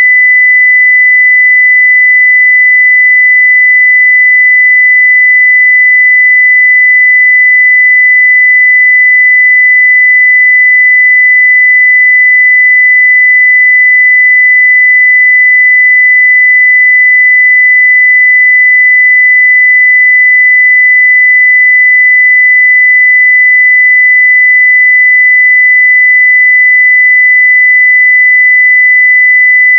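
A continuous 2 kHz sine-wave test tone at full level, one pure steady pitch with no change.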